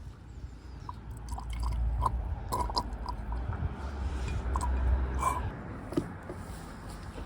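Petrol being poured into the intake ports of a motorcycle cylinder head: small drips and splashes and light clicks of handling over a low rumble that fades about five and a half seconds in. It is a leak test of freshly reassembled intake valves.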